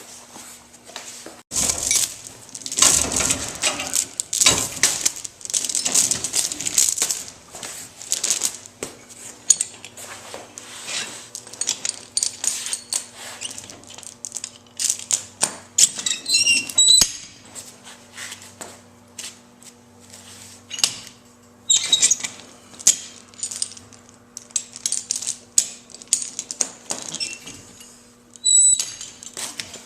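Steel tie-down chain clinking and rattling as it is handled and wrapped around the car's frame and leaf spring, in irregular bursts with a few sharp ringing metal strikes.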